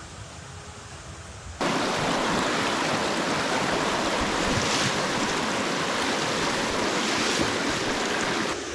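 Faint outdoor ambience, then about one and a half seconds in, an abrupt switch to the loud, steady rushing of a fast river, which drops away just before the end.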